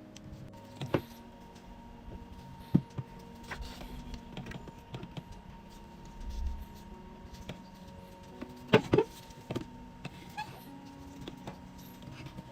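Hard objects being handled: a scattering of sharp knocks and clicks, the loudest a close pair about nine seconds in, over a faint steady hum.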